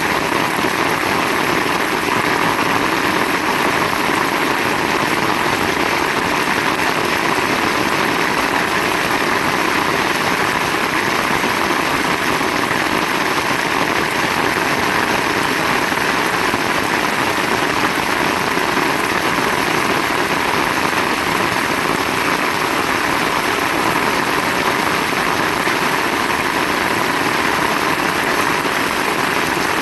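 Heavy rain pouring down in a dense, even hiss that stays steady throughout, with no thunderclaps.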